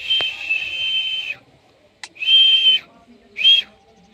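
Indian ringneck parakeet giving three loud whistled calls: a long steady one, a shorter one, then a brief one that rises and falls.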